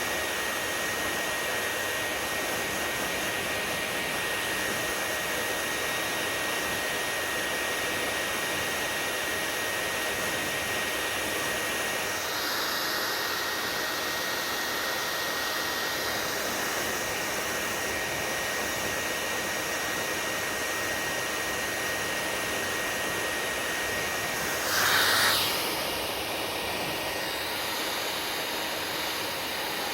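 Hair dryer running with a steady blowing rush and a thin high whine. About 25 seconds in there is a brief louder surge, and the whine stops after it.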